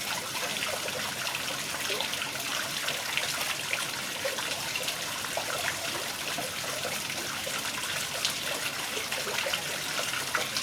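Water splashing and trickling in a steady wash of many small splashes, most likely water moving against and around a boat.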